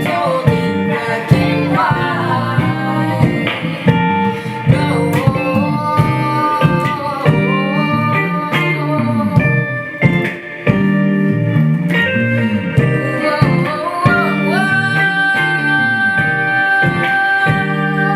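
Indie soul band playing live, a guitar line with bent, gliding notes leading over the band.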